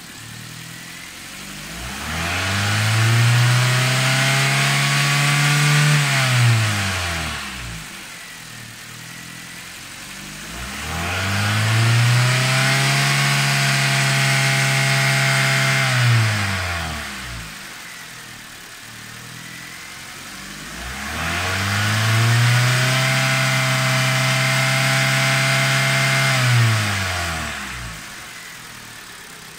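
Chevrolet Orlando's 1.8-litre 16-valve Z18XER Ecotec four-cylinder petrol engine revved three times: each time it climbs to high revs, holds there for about four seconds, then drops back to idle.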